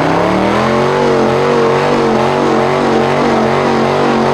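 A car engine revs up over the first half second, then is held at steady high revs.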